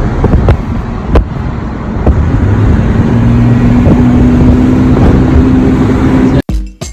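Car driving on a bumpy, winding road: steady engine and tyre rumble with a couple of sharp knocks, and a steady hum joining about three seconds in. It cuts off suddenly near the end.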